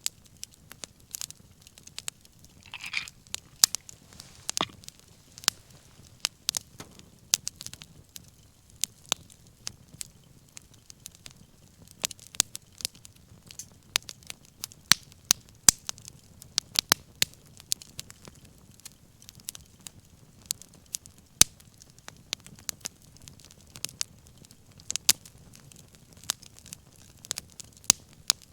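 Wood fire crackling, with frequent irregular sharp pops and snaps over a soft low rumble of the flames. A brief hiss comes about three seconds in.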